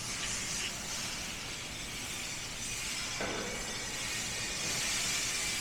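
Steady hissing background noise of a factory floor, with no clear rhythm or single event.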